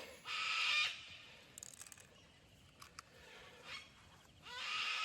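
Two harsh, rasping bird calls, each about half a second long, one near the start and one near the end, with a few faint clicks in between.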